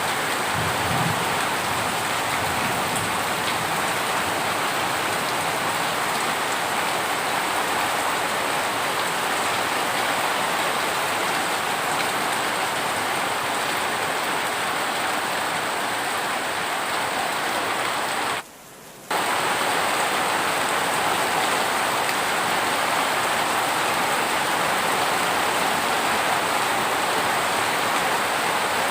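Heavy rain falling steadily in a dense, even hiss with no thunder. About two-thirds of the way through it cuts out sharply for half a second, then resumes.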